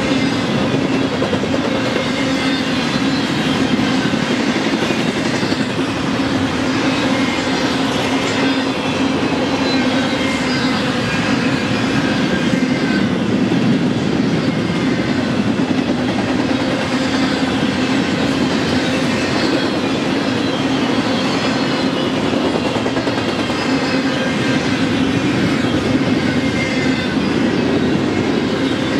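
Double-stack intermodal container well cars rolling steadily past on the rails: a continuous rumble of steel wheels on track with some clickety-clack, and faint high squeals from the wheels coming and going.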